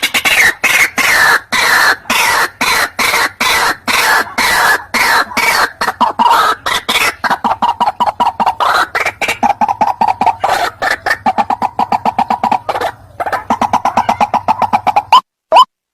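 White-breasted waterhen (ruak-ruak) calling: a fast, continuous run of repeated clucking notes. About a second before the end it changes to separate rising notes, roughly two a second.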